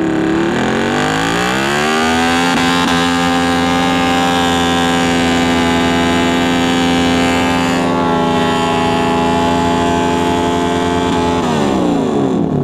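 Motorcycle engine pulling up in revs over the first couple of seconds, holding a steady pitch at cruising speed, then dropping off as the throttle closes near the end.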